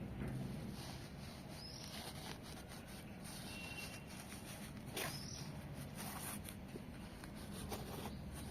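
Quiet outdoor background with a few short, high bird chirps, about 2 and 5 seconds in, and scattered faint clicks.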